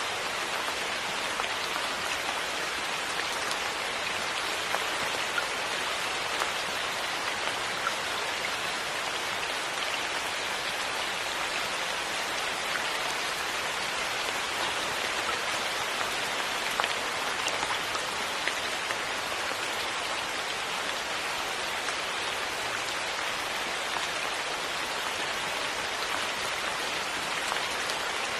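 Steady rain falling, an even hiss with a sharper drop tick now and then.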